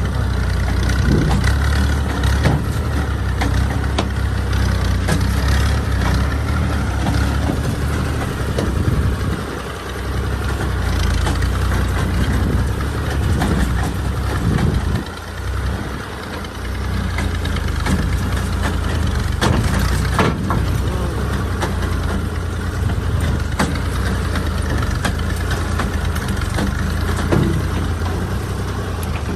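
Fiat 480 tractor's diesel engine running steadily as a low, continuous rumble, dipping briefly twice, about ten and fifteen seconds in.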